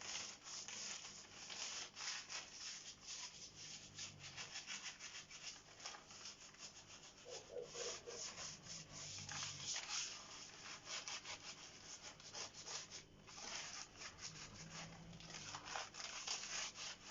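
Crumpled newspaper rubbed against a fireplace's glass door in quick, irregular strokes, wiping off cleaner and soot.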